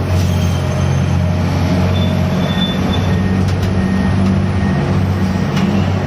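Gut ship's engine and grab-crane machinery running steadily while handling cargo, a loud continuous low drone with a few faint ticks.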